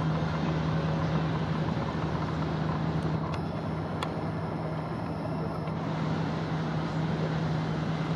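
Steady outdoor vehicle noise, like road traffic, over a constant low hum, with a short click about four seconds in.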